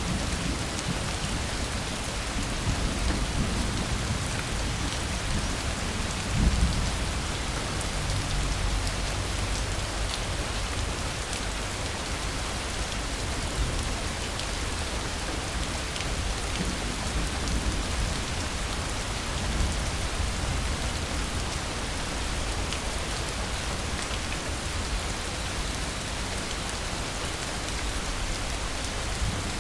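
Steady rain falling, an even hiss throughout, with a low rumble of distant thunder building a couple of seconds in and peaking at about six and a half seconds before fading out.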